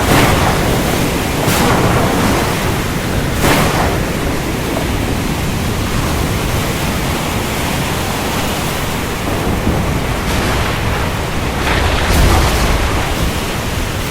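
Heavy rain falling steadily during a thunderstorm, with brief thunder cracks about two and four seconds in and a deep roll of thunder near the end.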